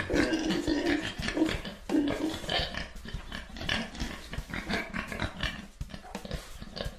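A farm animal calling over and over in a dense run of short, rough, irregular calls.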